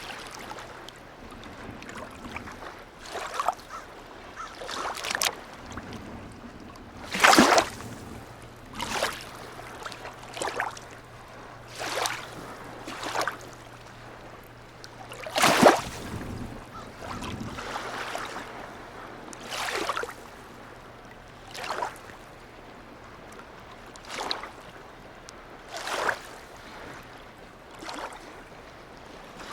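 Harbour seawater lapping, with small irregular splashes every second or two. A faint steady low hum runs underneath and fades about two-thirds of the way through.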